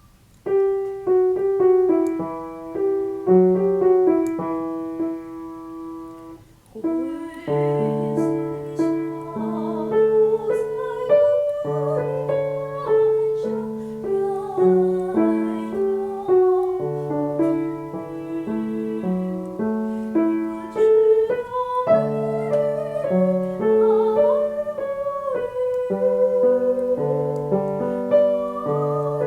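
Piano accompaniment plays a short introduction alone. About seven seconds in, a singer comes in and sings a vocal exercise-song line over the piano.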